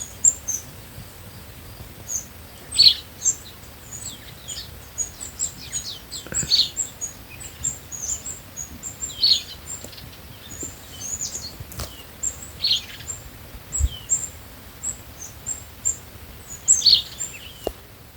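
Small birds singing in the morning: a steady scatter of very high, short chirps, with a louder, lower call sweeping down every three to four seconds.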